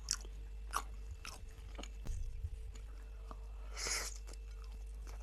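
A person chewing a mouthful of soft potato casserole, with several sharp clicks and a short breathy hiss about four seconds in.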